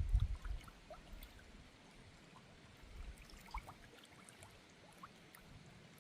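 Faint running water of a small river, trickling with scattered small drips. A low rumble at the very start fades within about half a second, and there are two soft low bumps a little past the middle.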